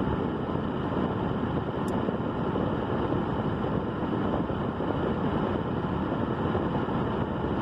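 Steady rumbling noise with no clear pitch, strongest in the low range, with one faint high tick about two seconds in.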